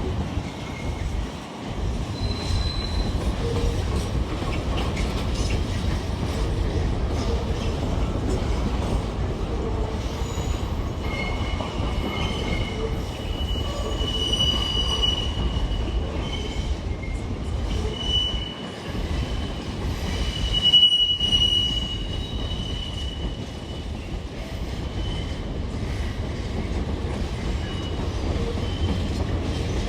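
A train running on the rails with a steady low rumble, and high-pitched wheel squeal that comes and goes from about ten seconds in, loudest a little past the twenty-second mark.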